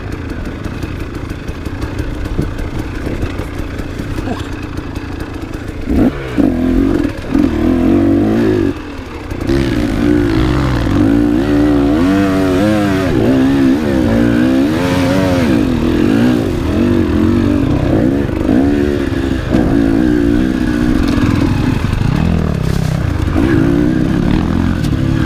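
Enduro motorcycle engine being ridden hard off-road. It runs at a lower, steadier note at first, then from about six seconds in it gets louder and the throttle is worked constantly, the revs rising and falling in quick swings.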